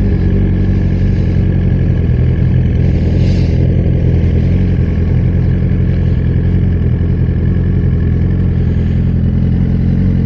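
Suzuki GSX-R1000 inline-four motorcycle engine with a Brock's Performance aftermarket exhaust idling steadily, a loud, even exhaust note with no revving.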